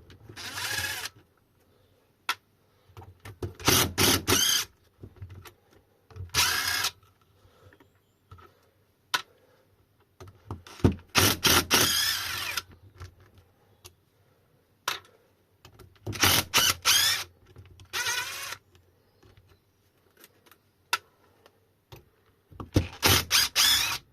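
Electric drill-driver with a 4 mm hex bit running in short bursts, several seconds apart, as it backs out the bolts holding the side cover of a Sur Ron hub motor. Small clicks and taps come between the bursts.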